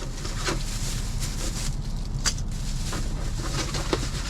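A takeout food container being handled and opened: a few short clicks and rustles of packaging over a steady low hum.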